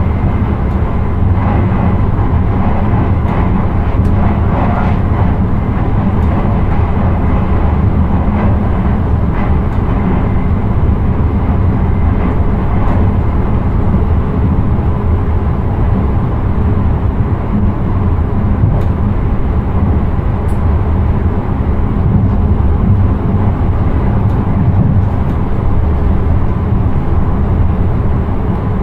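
Steady low rumble of a train running along the line, heard from inside the driver's cab, with a few faint clicks.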